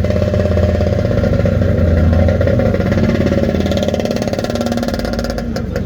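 Air-cooled flat-six engines of Porsche 911 Carrera 2 and Carrera 4 cars running at low speed as they roll past, a steady engine note with no hard revving.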